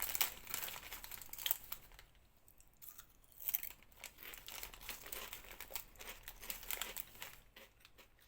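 Irregular crinkling and rustling, like something being handled, with a quieter gap about two seconds in before it picks up again and thins out near the end.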